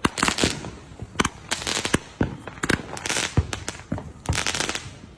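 Fireworks going off: an irregular string of sharp bangs and pops, a few each second, with crackling between them.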